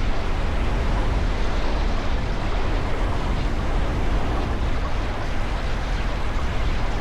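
Wooden roller coaster train running along the track, a steady low rumble of the wheels on wooden track mixed with wind rushing over the ride-mounted camera's microphone.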